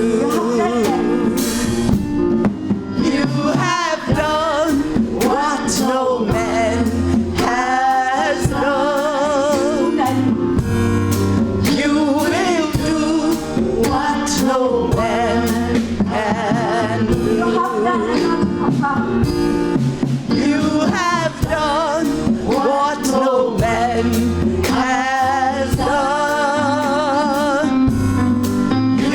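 Live gospel music: a singer with vibrato over a band with drum kit and bass, played at a steady beat.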